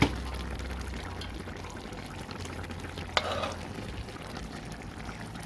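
Fish and vegetables cooking in a pot, a steady crackling sizzle, with a short clatter about three seconds in.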